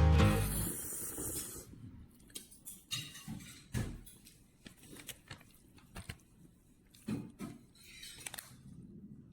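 Background music fading out in the first second and a half, then scattered faint knocks and clicks, some short and sharp, a few with a low thud.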